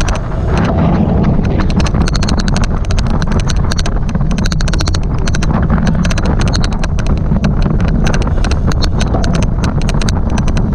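A rapid, uneven run of sharp clicks, the odd clicking noise that runs through this cyclocross race recording, over a steady low rumble of riding.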